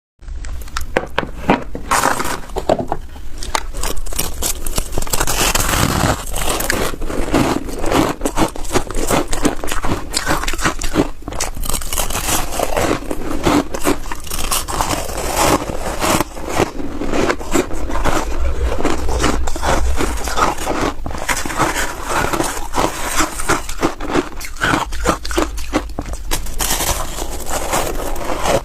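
Snow ice being bitten and chewed: a dense, continuous run of crisp crunching and crackling.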